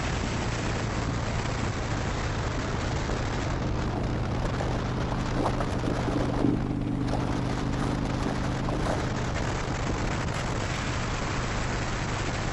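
Harley-Davidson Dyna Wide Glide's Twin Cam 103 V-twin running steadily at cruising speed through Vance & Hines slip-on exhausts, with wind rushing over the helmet-mounted microphone.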